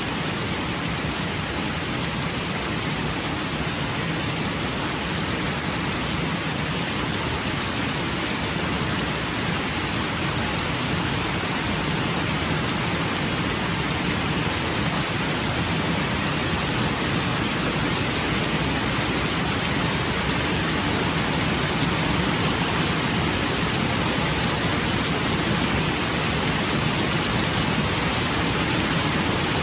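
Steady rain falling, an even hiss that grows slightly louder toward the end.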